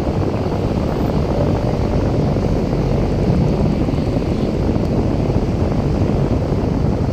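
Strong wind blowing hard across the microphone, a loud steady low rumble.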